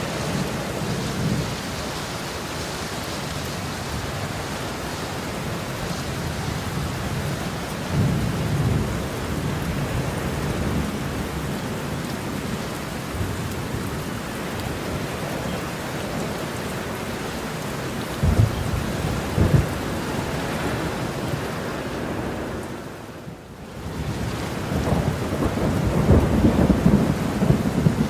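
Heavy rain falling steadily, with low rolling thunder that swells up several times, strongest near the end; the sound briefly drops away about three quarters of the way through.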